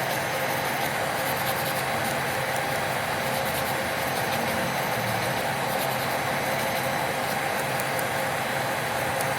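Electric nail drill (e-file) running at a steady speed, a constant motor whir with a high whine.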